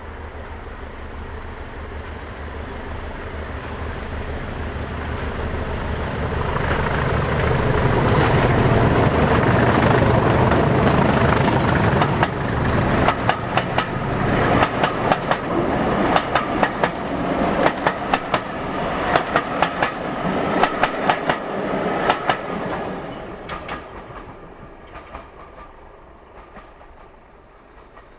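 A diesel locomotive and its passenger train passing: the engine's drone builds to a loud peak, then the coaches' wheels clatter over the rail joints in quick groups of clicks before the sound fades away.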